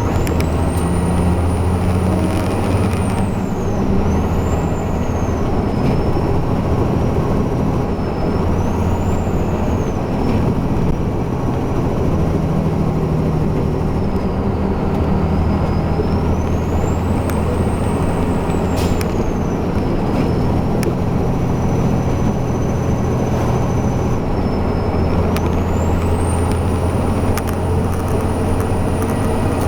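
Heavy truck's diesel engine running steadily under load, a constant low drone, with a thin high whine above it that rises and falls several times.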